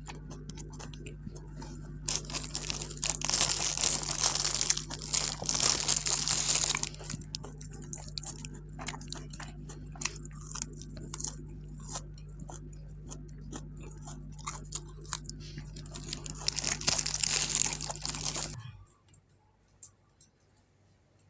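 Close-up eating sounds: crunching and chewing with bright, crackly bursts like crinkling or tearing, loudest twice, plus a steady low hum that cuts off suddenly near the end.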